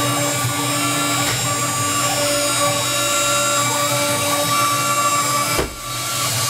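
CNC router cutting a finishing pass on a carved relief: a steady whine from its 2.2 kW water-cooled spindle with the stepper motors humming on the ball-screw axes. The sound dips briefly about five and a half seconds in, then carries on.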